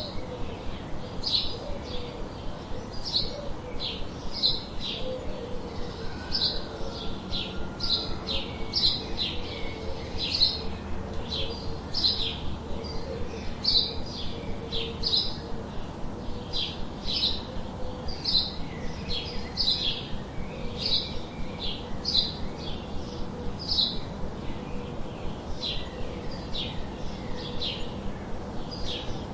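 Birds chirping: short, high chirps repeated about twice a second in a steady run.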